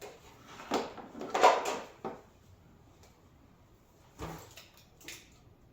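A few short, irregular clattering knocks of metal parts, the loudest about a second and a half in, with quieter ones near the end.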